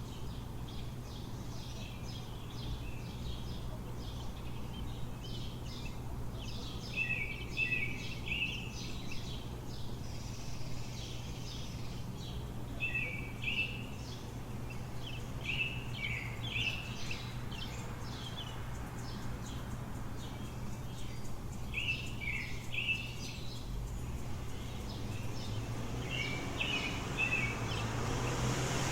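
Songbirds chirping and singing short repeated phrases at dawn over a steady low city hum. Near the end a vehicle grows louder as it approaches.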